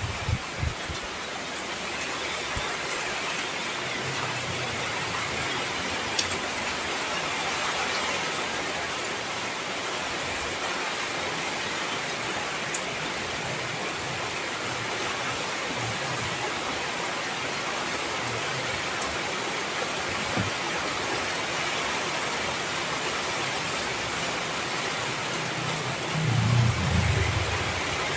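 Heavy rain falling steadily, an even hiss with a few individual drips ticking through it. A low rumble swells briefly near the end.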